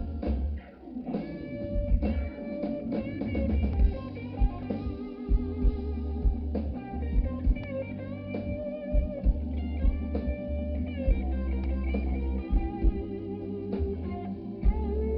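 Live blues band playing: an electric guitar lead with bent notes over drum kit and bass, with a brief drop in the music about half a second in before the band carries on.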